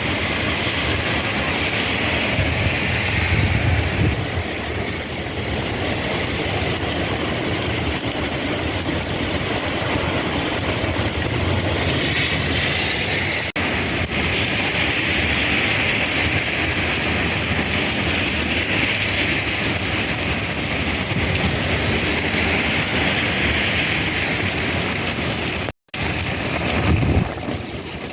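Heavy desert monsoon rain pouring steadily, a dense, even hiss of a downpour, with a brief cut in the sound near the end.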